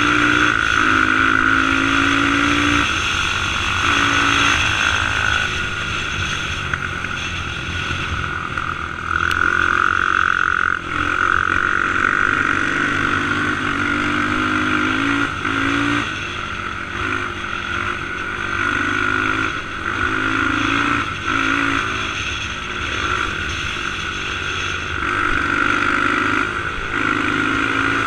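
Motorcycle engine running under way, its pitch rising and falling every few seconds as the rider works the throttle and gears.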